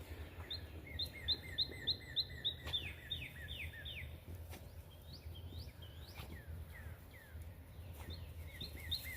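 A songbird singing: a rapid series of short down-slurred whistled notes, about three a second, slowing into a few longer falling slurs, with a few scattered notes in between and the phrase starting again near the end. A steady low rumble lies underneath.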